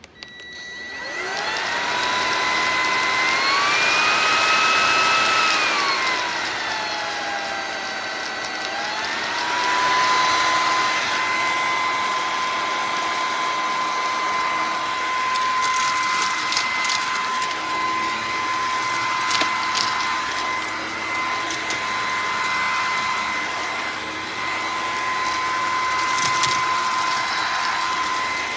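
Bissell PowerClean FurGuard cordless stick vacuum switched on: its motor whine spins up within the first second. Over the next ten seconds the pitch rises, dips, then settles, and the motor runs at a steady pitch from there on, with scattered small clicks in the second half.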